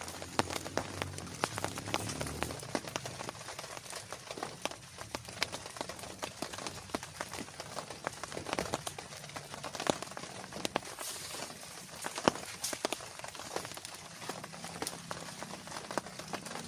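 Rain falling, with dense, irregular sharp taps of drops striking a surface close by over a steady hiss.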